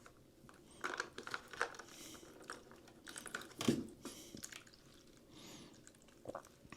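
Faint, irregular clicks and crackles of hands handling the washer's drain hose and catch pan.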